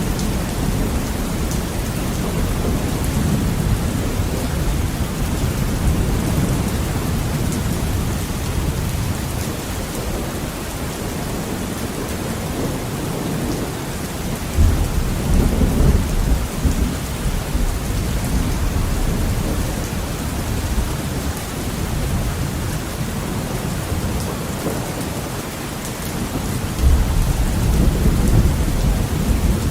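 Heavy rain beating steadily on a window, with low rolling thunder rumbling underneath. The thunder swells louder about halfway through and again near the end.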